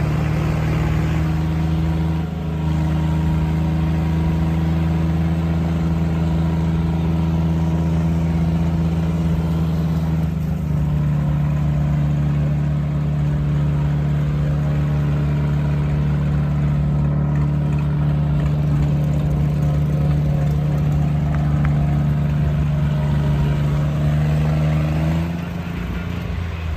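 Tractor's diesel engine running at a steady speed with an even, constant note. The pitch steps up slightly about ten seconds in, and near the end the engine note drops and gets quieter, as if it is throttled back.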